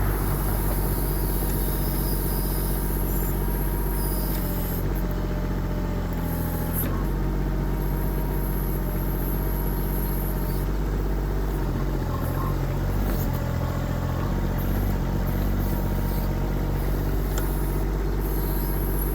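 Kubota diesel engine of a 1.6-ton mini excavator running steadily at working speed. Its note shifts briefly a couple of times, about five seconds in and again near the middle, as the load changes.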